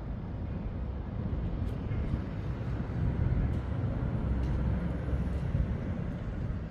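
Low outdoor rumble with no distinct events, growing louder about three seconds in and easing off near the end.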